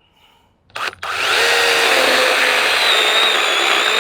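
Cordless electric chainsaw triggered with a click about a second in, then running steadily with a high whine as it cuts into a branch.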